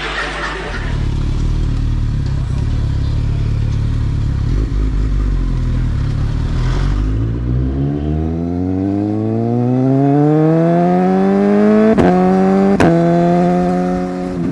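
Superbike's inline-four engine cruising with a low rumble, then accelerating hard about halfway through, its pitch rising steadily as it revs up. Two sharp clicks come near the end.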